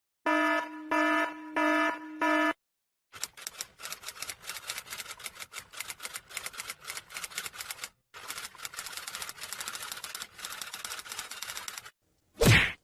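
A run of stock sound effects: four short buzzer beeps, then about nine seconds of rapid, irregular clicking, broken once briefly, then a short whoosh near the end.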